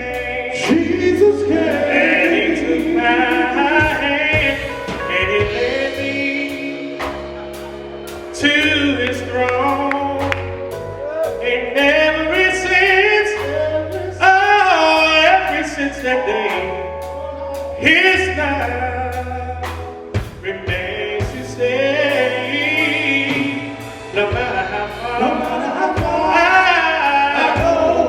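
Gospel music: a male group singing over band accompaniment, with low bass notes and regular drum beats under the voices.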